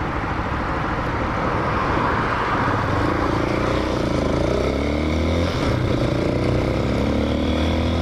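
Hawk 250 dual-sport motorcycle's single-cylinder engine running on the road, its note rising and dipping a couple of times in the second half, then settling lower, under a steady rush of wind.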